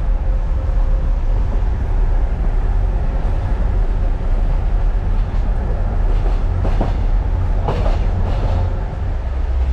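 Kuranda Scenic Railway train running along the line, a steady low rumble of the carriages on the track.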